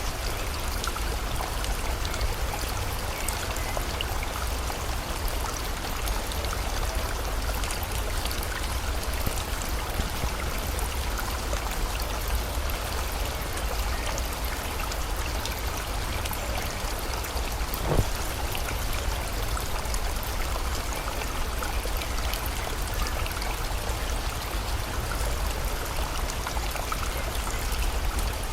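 Steady rush of a flowing river with rain falling, a constant low rumble beneath it. A single sharp tick stands out about eighteen seconds in.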